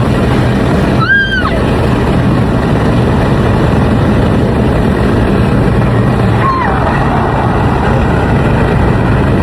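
Car engine and road noise while driving, loud and steady. A brief high rising-and-falling tone sounds about a second in, and a shorter falling one comes around six and a half seconds in.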